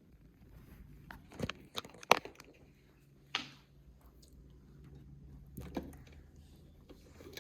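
Plastic doll-kitchen toy pieces handled and set in place: a run of sharp clicks and knocks, the loudest about two seconds in, with more handling clicks later.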